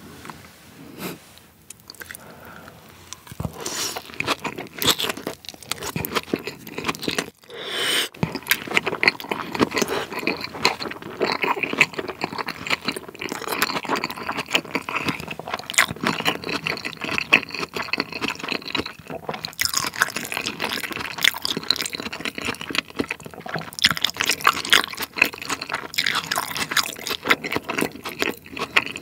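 Close-miked wet chewing of a large raw salmon nigiri with crisp crunches from its topping of sliced onion, starting a few seconds in and going on as a dense, irregular run of smacks and crackles.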